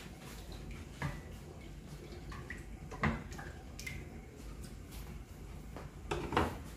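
A spoon stirring coconut milk and red kidney beans in a stainless steel pot: liquid sloshing, with a few knocks of the spoon against the pot about a second in, three seconds in and near the end.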